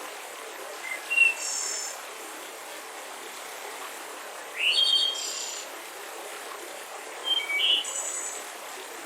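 Mountain river rushing steadily, with a songbird calling three times: short high chirps and a rising whistle about a second in, near the middle and near the end.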